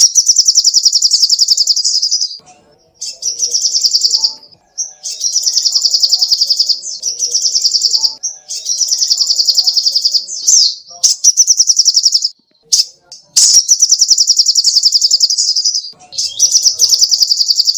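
Sogoh ontong songbird singing rapid, high trilled phrases, each one to two seconds long, repeated again and again with short breaks between them.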